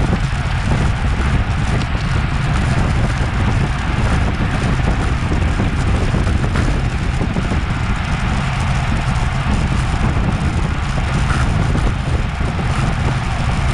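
Steady wind noise buffeting an action camera's microphone on a racing bicycle at speed, a dense low rumble with a fainter hiss above it.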